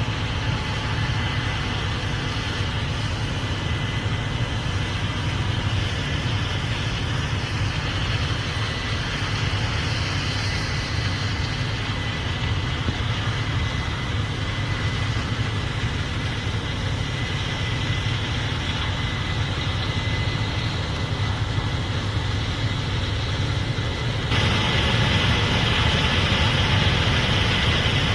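Case IH Axial-Flow 8250 combine running steadily, with a faint steady high whine over the engine hum. About 24 seconds in it gets louder and brighter.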